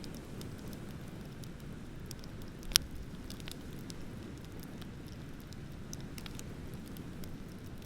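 Wood bonfire crackling, with scattered small snaps and one sharp, much louder pop about three seconds in, over a steady low wash of ocean waves.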